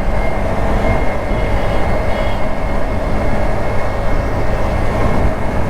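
Ride noise from a Honda Activa scooter on the move: a steady, loud rush of wind and road noise, strongest in the low end, with faint steady engine tones underneath.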